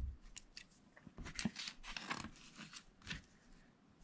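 Small plastic Lego pieces being handled and pressed onto the build: faint scattered clicks and light scraping.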